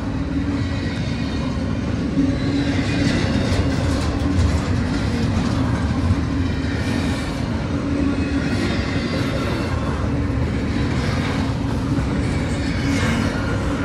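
Double-stack intermodal freight train's well cars rolling past close by: a steady rumble with intermittent clacks from the wheels.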